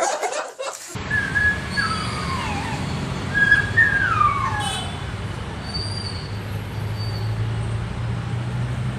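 Steady low traffic rumble with a few high, whistle-like tones that slide downward in pitch in the first half.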